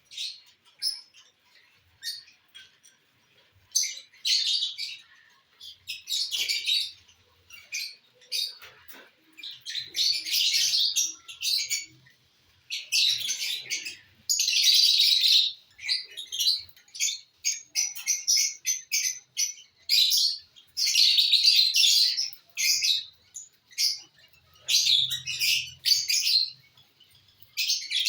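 Lovebirds chirping and chattering in shrill, high-pitched bursts, some short and some lasting a second or two, with brief gaps between them.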